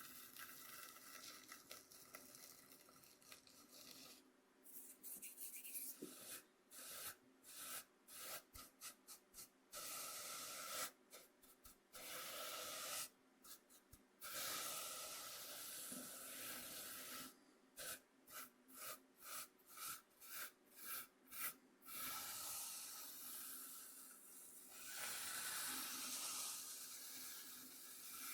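Coarse cornmeal rubbed and scraped across a bamboo cutting board: a soft, gritty scratching. Long continuous rubs alternate with runs of quick short strokes at about two a second.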